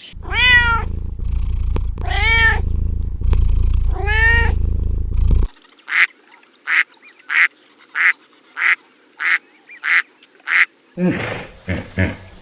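A cat meowing three times, each meow rising then falling, over a low steady rumble that stops suddenly a little after five seconds. Then a different animal gives about eight short, evenly spaced calls, roughly one and a half a second.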